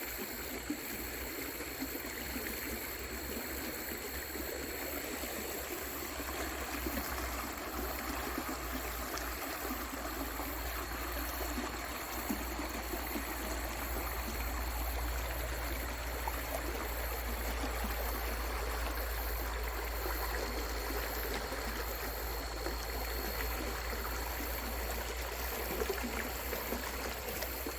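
Creek water rushing steadily over rocks in a salmon stream, a continuous even noise.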